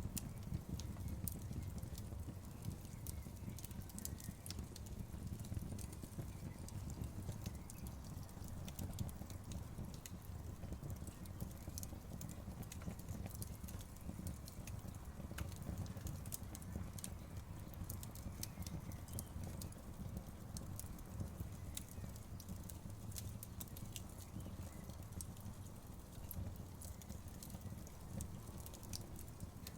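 Campfire crackling: a steady low rumble of burning wood with frequent, irregular sharp crackles and pops.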